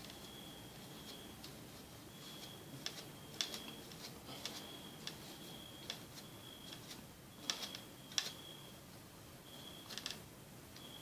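A small brush scrubbing dust out of a netbook's innards in short repeated strokes, a dry rasp about once a second, with sharp clicks and taps in between, the loudest about three and a half and eight seconds in.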